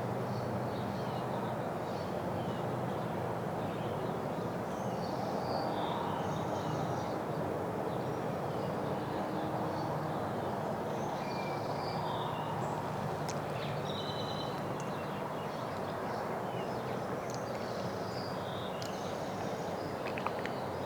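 Small birds chirping briefly and often, high-pitched, over a steady low outdoor background rumble.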